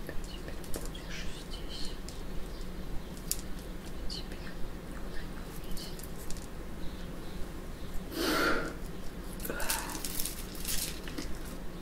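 Sparse bird chirps from outside, with a louder rustling sound about eight seconds in and a shorter one about a second later, over a low steady hum.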